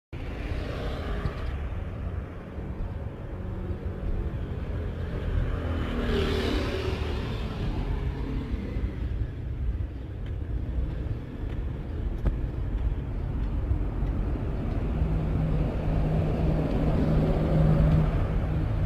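Steady low rumble of a motor vehicle running, with an engine hum that grows stronger near the end.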